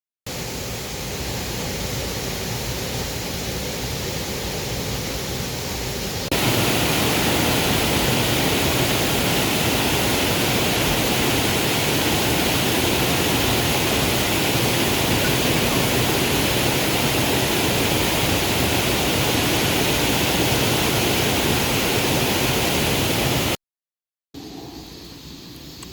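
Mountain stream water rushing, a steady even hiss. It jumps louder about six seconds in, cuts out briefly near the end, and comes back quieter.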